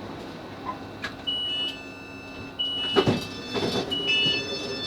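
Class 458 train's door beeps: three short high beeps about a second and a half apart as the passenger doors open at a station stop, with a loud clunk from the sliding doors about three seconds in.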